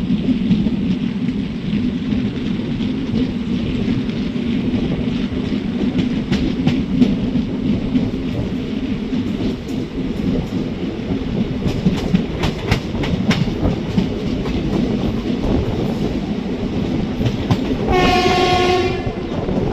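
Passenger express train rolling out of a station with a steady low rumble, its wheels clicking over rail joints in the middle stretch. Near the end the locomotive sounds its horn once, a single tone held about a second.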